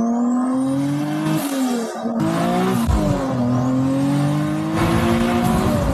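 Turbocharged Acura NSX V6 accelerating hard through the gears. The revs climb, drop at a gear change about two seconds in, then climb again, with a faint rising turbo whistle over the engine.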